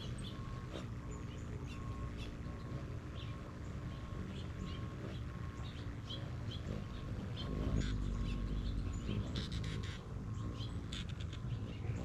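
Birds chirping outdoors: short, high chirps scattered irregularly throughout, over a steady low rumble that grows louder about eight seconds in.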